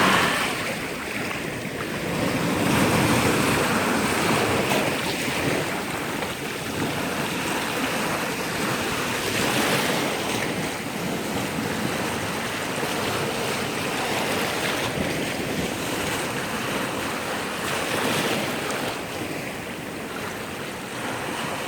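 Sea surf: waves breaking and washing on the shore, surging louder and easing off in slow swells, with wind buffeting the microphone.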